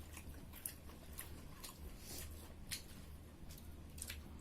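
People eating: scattered soft chewing clicks and lip smacks, roughly one every half second, over a steady low hum.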